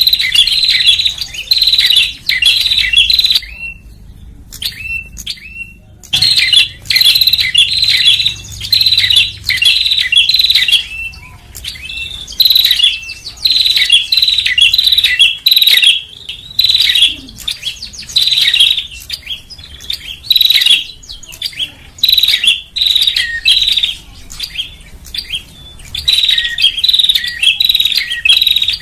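Prenjak (prinia) calls played as a bird-trapping lure: loud, rapid chattering notes repeated in bouts, with brief pauses between bouts and a longer pause a few seconds in.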